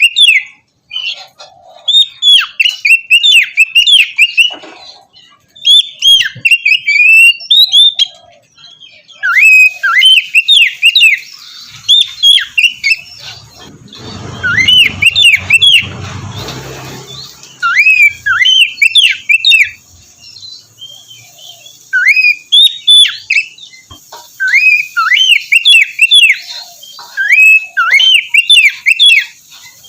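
Oriental magpie-robin (kacer) singing in repeated bursts of fast whistled notes that sweep up and down, with short pauses between phrases. About halfway through, a low rushing noise swells for a few seconds under the song.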